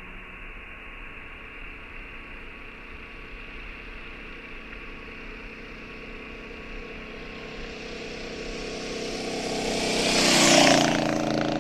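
A motor vehicle approaching and passing close by, loudest about ten and a half seconds in, its engine pitch dropping as it goes past.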